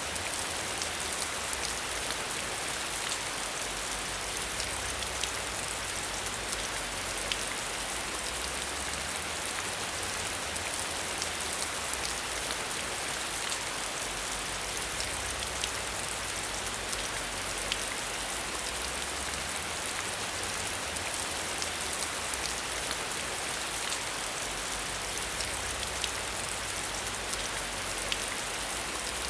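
Steady rain: a dense, even hiss with many small raindrop ticks, over a soft low rumble.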